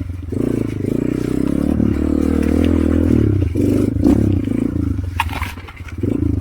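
Motorcycle engine running under changing throttle, its pitch rising and falling as it works along a muddy track, with a brief clatter about five seconds in.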